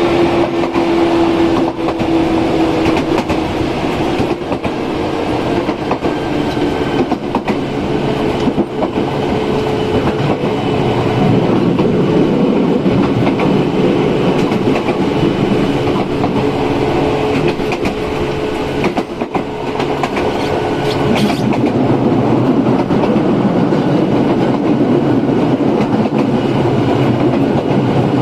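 Izukyu 8000 series electric train running: the low-pitched hum of its Hitachi-made field-chopper control equipment over steady running noise, with rail-joint clicks. The tones shift about two-thirds of the way through.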